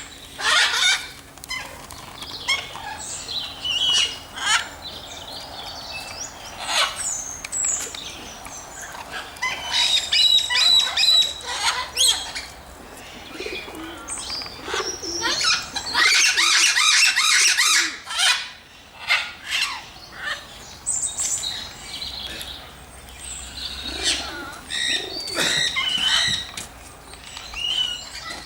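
Aviary birds calling: many short, separate chirps and calls one after another, with a louder, rougher stretch of calling about 16 seconds in.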